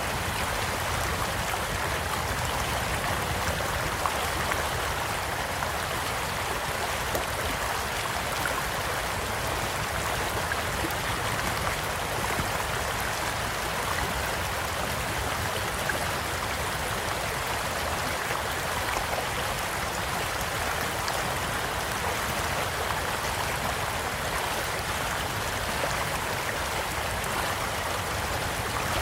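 A stream flowing steadily with an even rushing and trickling of water, with a few faint crackles from a campfire.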